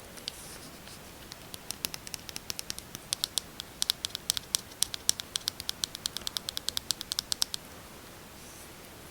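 Fingernails tapping quickly on a lipstick tube, a rapid run of crisp ticks several a second that stops suddenly near the end.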